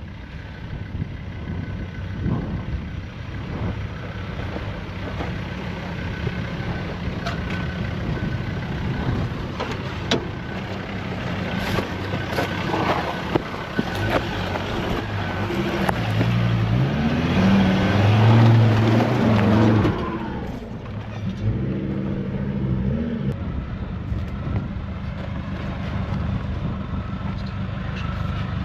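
A four-wheel-drive's engine working off-road, with scattered knocks and clatter. The engine climbs in revs to its loudest about two-thirds of the way through, then drops back suddenly to a steadier, lower running.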